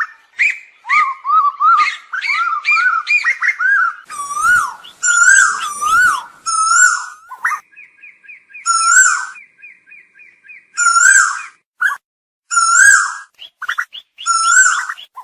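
Asian koel calling: loud, repeated whistled notes that rise and fall in pitch, broken in the middle by a rapid series of short, higher notes lasting a few seconds.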